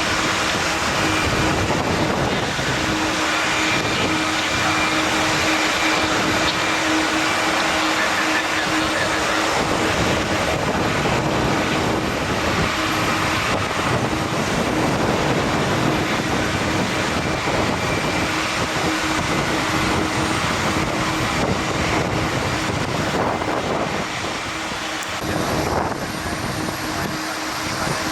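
Jet airliner engines running loud with a dense rush of noise and a steady low hum underneath, easing slightly near the end.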